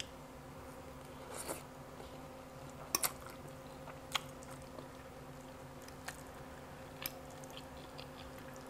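A person eating with a fork, close to a clip-on microphone: quiet chewing and biting with a faint steady hum underneath. A handful of short sharp clicks are spread through it, the loudest about three seconds in.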